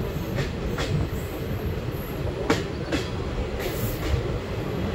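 Indian Railways ICF passenger coach running at speed: a steady, dense low rumble of wheels on rail, broken by a few sharp, irregular clacks from the wheels and track.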